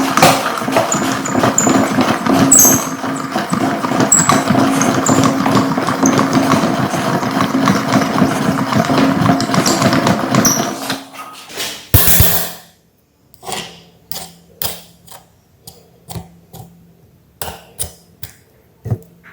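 Electric meat grinder running with a steady motor hum and a dense crunching and clicking as jelly candy is fed through. It cuts off about eleven seconds in after a short loud burst, leaving separate soft clicks and squishes.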